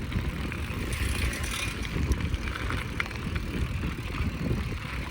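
Bicycle ride heard on the rider's own camera: wind rumbling unevenly on the microphone, over tyre noise and a few small clicks and rattles from the bike.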